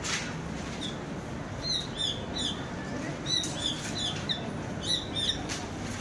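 Bird chirping: short, high, arched notes in quick runs, about two seconds in and again from about three to five seconds in, over a steady low background rumble.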